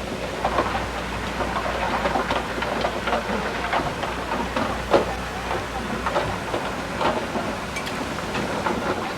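Crawler bulldozer working: a steady low engine hum under irregular metallic clanks and rattles.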